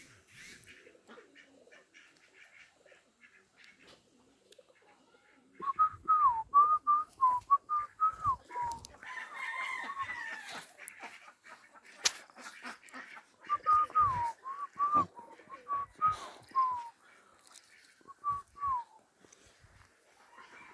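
An animal calling in three runs of short, quick high notes that rise and fall, about five seconds in, again around fourteen seconds, and briefly near the end, with a few knocks among them.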